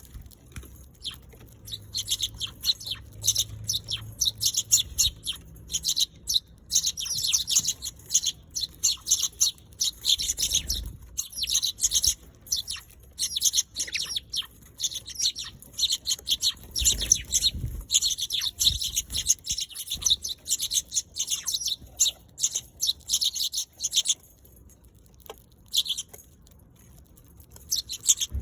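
Eurasian tree sparrows chirping busily: a rapid, overlapping stream of short high chirps that thins to a few scattered chirps for the last few seconds.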